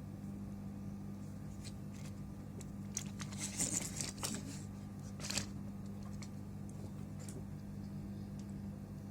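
Small tools clicking and scraping on a power-supply circuit board during component rework: a cluster of short clicks about three to four seconds in and one more just after five seconds, over a steady low hum.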